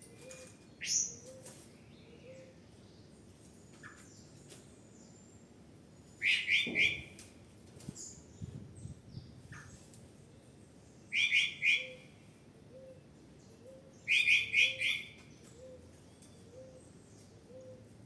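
Birds calling: a loud phrase of several rapid chattering notes comes three times, with a sharp single call about a second in. Underneath, a faint low note repeats about twice a second.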